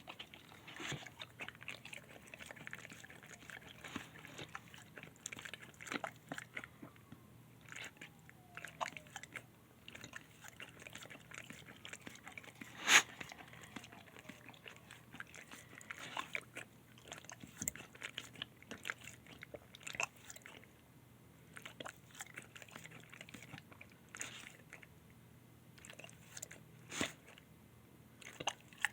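A Shar-pei and pit bull mix dog chewing and crunching a meal of bone marrow and chicken: irregular crunches and clicks of teeth, with one sharp loud crack about 13 seconds in.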